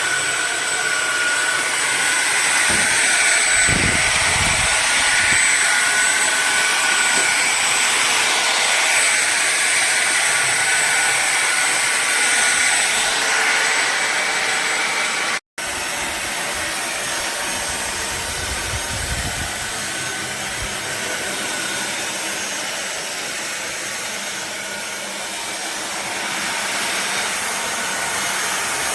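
Fieety 550 W cordless stick vacuum cleaner running steadily, a loud hiss of rushing air with a high motor whine. It breaks off for an instant about halfway, then carries on a little quieter with a slightly different whine.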